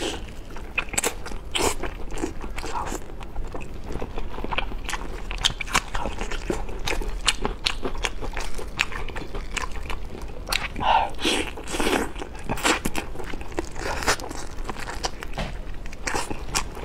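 Close-miked chewing and biting of braised cola chicken wings: irregular mouth clicks and smacks, with a denser run of bites about eleven seconds in.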